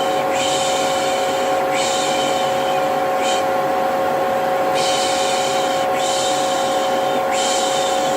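Vacuum cleaner running steadily with a constant motor whine, overlaid with repeated soft 'shhh' shushing of the kind used to lull a baby. The shushes come in sets of three long ones and a short one, with a pause of about a second and a half between sets.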